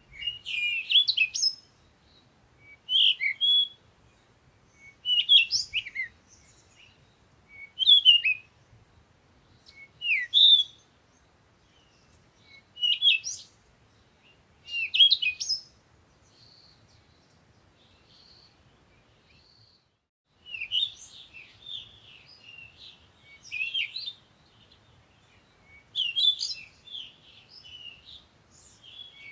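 Songbirds chirping: a short, high, twittering phrase repeated about every two and a half seconds. After a few faint notes, denser chirping overlaps from about two-thirds of the way in.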